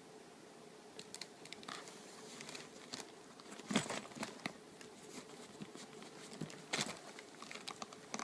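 A cat scratching with its claws inside a suitcase: irregular bouts of scraping and crinkling, with two louder scrapes about four and seven seconds in.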